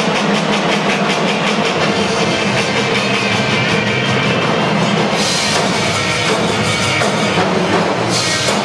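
A drumline playing fast, dense drum strokes, with two crashes, one about five seconds in and one near the end.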